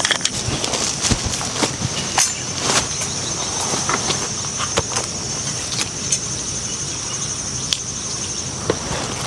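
Insects trilling steadily in a high band, with scattered small clicks and knocks throughout.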